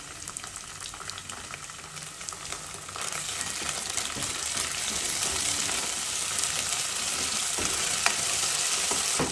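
Sliced onions, bay leaf and whole spices sizzling in hot oil in a saucepan, with ginger garlic paste being stirred in with a wooden spoon. The sizzle grows louder about three seconds in, once the stirring starts.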